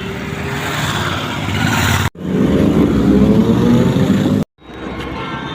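Motorcycle engines accelerating in a run of short cut-together clips. In the middle one the engine note climbs steadily in pitch as the bike speeds up.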